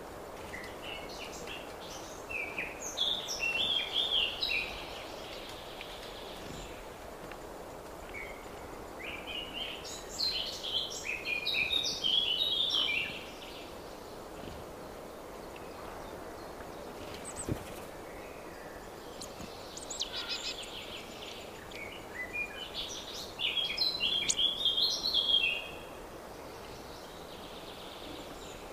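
A songbird singing loud phrases of about three seconds each, three times roughly ten seconds apart, with a shorter fainter phrase between the last two, over a steady low background hum.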